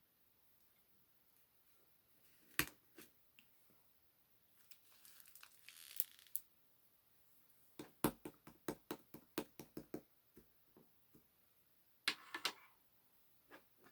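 Small objects being handled close up: scattered sharp taps and clicks, a quick run of them a little past halfway, and two brief bursts of crinkling like paper or plastic being crumpled or peeled.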